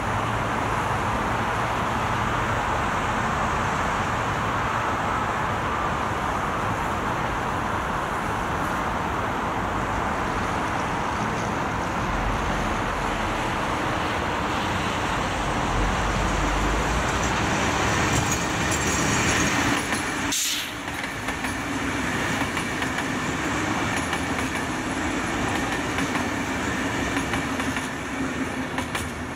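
VR Sm3 Pendolino electric tilting train passing at speed, a steady noise of wheels on rail that swells about two-thirds of the way through, with a brief break just after.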